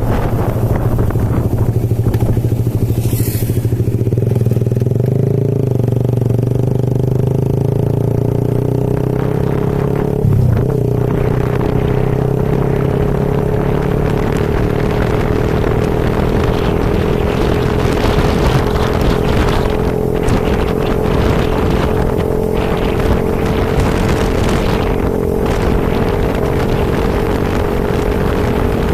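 Motorcycle engine running steadily on the move, over a continuous rushing noise. The engine note rises slowly about a third of the way through and then holds. There is one brief knock near the middle.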